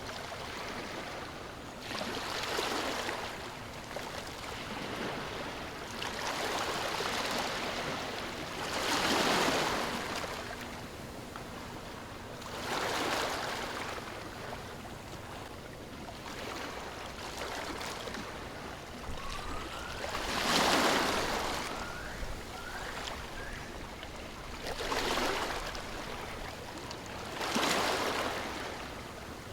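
Sea waves washing up on a shore, a swell surging and falling back every few seconds. A bird chirps a few short rising notes about two-thirds of the way through.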